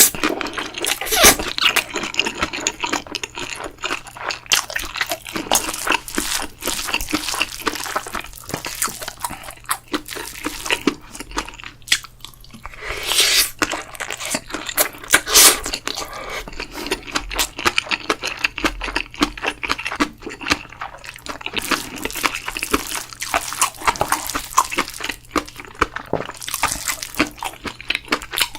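Close-miked wet, sticky food sounds of bibimbap being eaten: a spoon working through sauced rice and vegetables, with squishing and crunching in quick irregular clicks.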